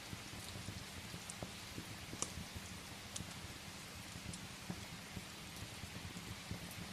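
Steady rain against a window, mixed with the scattered sharp crackles of firewood burning in a fireplace; the loudest crackle comes about two seconds in.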